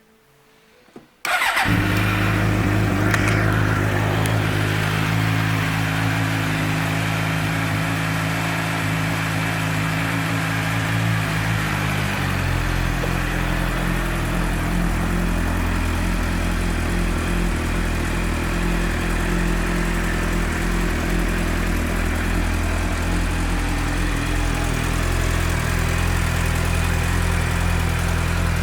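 A 2007 Suzuki GSX-R600's 600 cc inline-four is started about a second in, catching at once, then idles steadily. Its idle note shifts about twelve seconds in.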